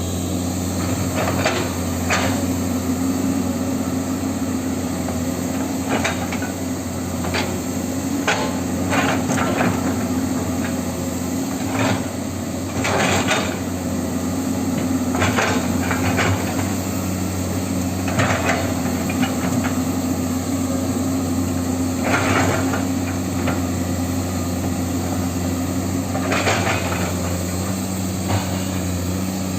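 Huina 1550 radio-controlled toy excavator working: a steady electric motor and gearbox hum, broken by irregular knocks and scrapes as the digging bucket works a ditch.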